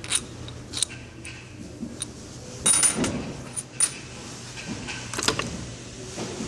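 Metal winch parts and tools clinking and knocking in a few separate clusters during disassembly, the loudest about three seconds in with a brief metallic ring.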